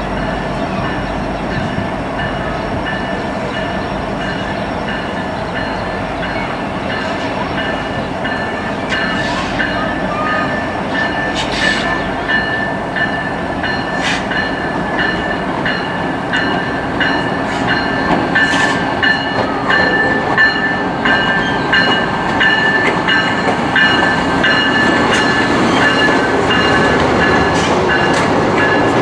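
Trains rolling by: the cars of an empty BNSF coal train and the approaching Amtrak Missouri River Runner passenger train, with a steady rumble, scattered wheel clicks over the rail joints and steady high-pitched tones. The sound grows louder in the second half as the Amtrak train passes beneath.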